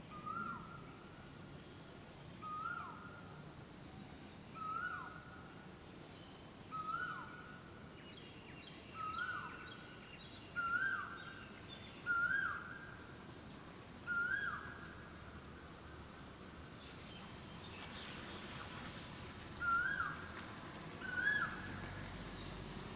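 A bird calling over and over, one short note about every two seconds, each rising slightly and then dropping sharply at the end; the calls get a little higher and louder as the series goes on, with a pause of a few seconds before the last two.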